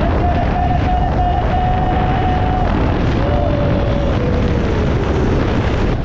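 Wind buffeting the microphone on a moving motorbike, over the engine's note: a steady tone, then after a short break a lower tone that slides gradually down as the bike eases off.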